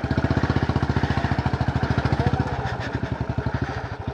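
Motorcycle engine running with a fast, even beat. It is loudest in the first two and a half seconds, then eases a little.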